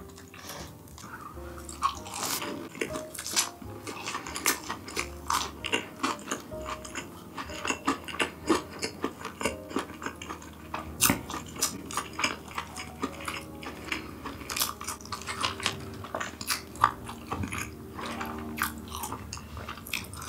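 Close-miked eating sounds: a person biting and chewing food, with many short crisp crunches at an irregular pace. Quiet background music with steady held notes plays underneath.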